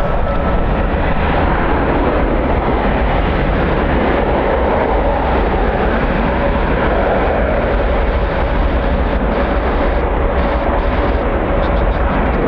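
Jet airliner engines running loud and steady, with a faint steady whine, while strong wind buffets the microphone with a low rumble.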